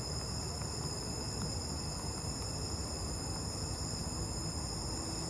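Steady low rumble of wind or handling noise on a phone microphone, under a continuous high-pitched drone of night insects.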